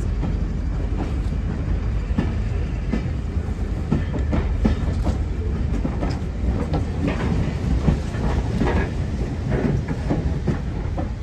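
Railway passenger coaches rolling past a platform: a steady low rumble with irregular wheel clacks over the rail joints.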